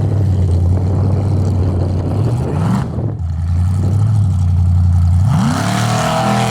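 Formula Offroad racing truck engine running at a steady speed, with a brief rise in pitch midway. It then revs up sharply about five seconds in and holds at a higher pitch.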